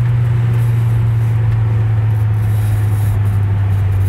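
Turbocharged five-cylinder engine and exhaust of a Volvo C70, heard from inside the cabin: a steady low drone whose pitch slowly falls as the car, off boost, eases off and slows.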